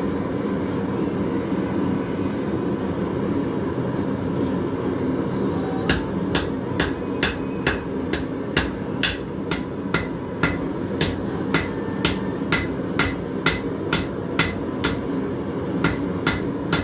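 Blacksmith's hammer striking steel on an anvil in a steady rhythm, about two ringing blows a second, starting about a third of the way in, over a steady low background rumble.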